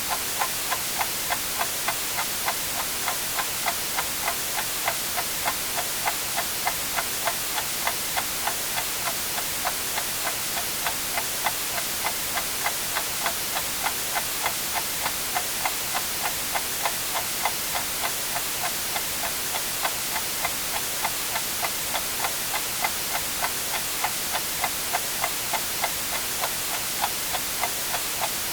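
A clock ticking steadily and evenly over constant white noise, a hiss weighted toward the high end.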